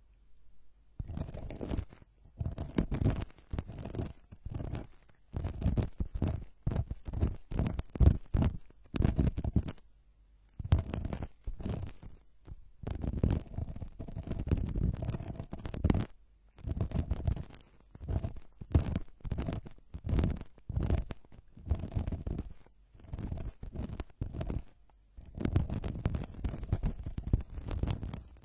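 Close-up ASMR trigger sounds: something rubbed and scratched directly against the microphone in short, irregular strokes, about one or two a second, with brief pauses between runs.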